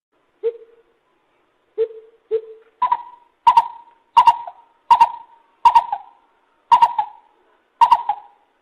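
Lesser coucal calling: three low, hollow notes, then a faster run of higher, doubled hoots at about one and a half a second.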